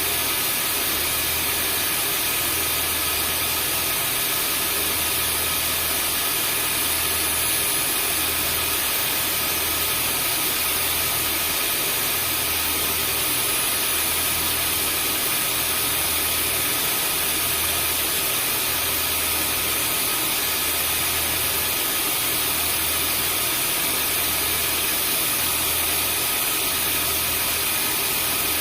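Vacuum cleaner motor running steadily: an even rushing hiss with a high whine, over a low throb that pulses about every second and a half.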